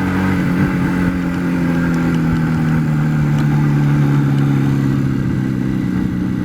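IZh Jupiter 4 motorcycle's two-stroke twin-cylinder engine running steadily under way, its pitch easing down slightly.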